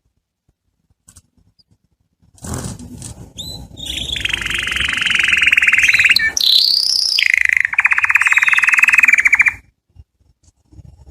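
Domestic canary singing: after about two seconds of quiet, a phrase of song that builds into two long, very fast trills, the second starting about eight seconds in. The song stops abruptly about a second and a half before the end.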